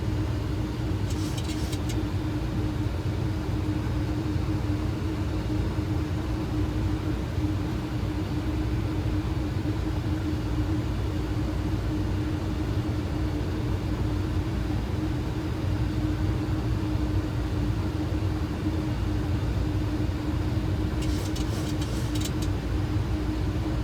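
Boeing 737 flight deck on approach with the landing gear down: a steady rumble of airflow and engines with a constant hum, and brief high crackles about a second in and again near the end.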